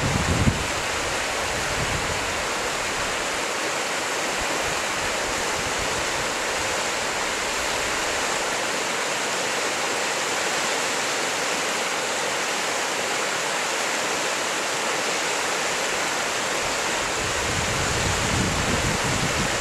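Hoh River's rushing water: a steady, even rush. Wind briefly buffets the microphone in the first half-second and again near the end.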